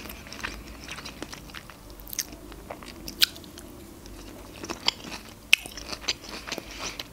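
Close-miked chewing of pickled sushi ginger: wet mouth clicks and small crunches at irregular intervals.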